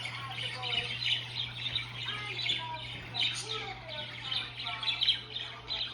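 Pet budgerigar (parakeet) chirping and warbling nonstop in a busy chatter, over a steady low hum.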